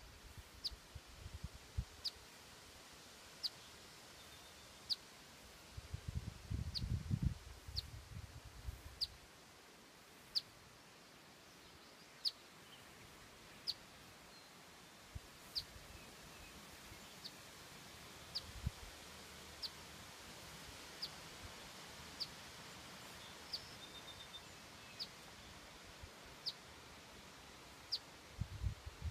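A bird repeating a single short, high chirp about every one and a half seconds over faint outdoor background noise. A low rumble comes and goes from about six to nine seconds in.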